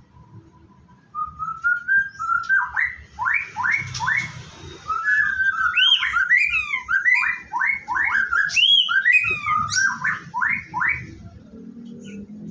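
White-rumped shama (murai batu) singing: a fast run of whistled notes, sliding up and down, starting about a second in and stopping shortly before the end.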